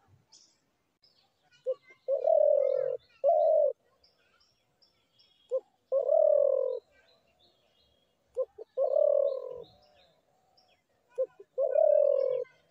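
Spotted dove cooing: four phrases about three seconds apart, each a short note followed by a longer, slightly falling coo. Faint chirps of small birds in the background.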